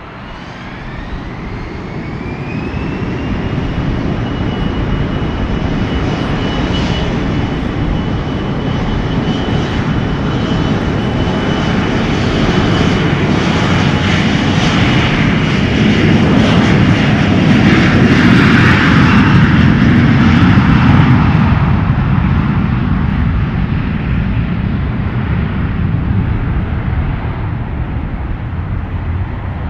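Airliner's engines spooling up to take-off power: a whine rises over the first few seconds and then holds steady, over a deep rumble that grows loud, peaks about two-thirds of the way through and then fades as the aircraft moves away.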